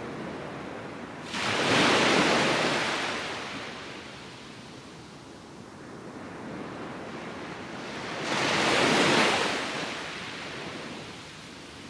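Waves breaking on a sandy beach. Two waves break and wash up, one about a second in and one about eight seconds in, over a steady hiss of surf.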